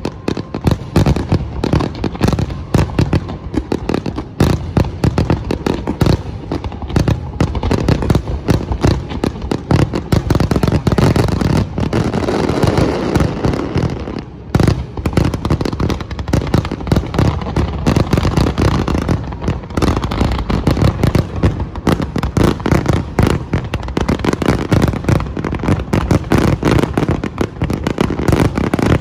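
Fireworks display going off in a dense, continuous barrage of rapid bangs, with a brief lull about halfway through.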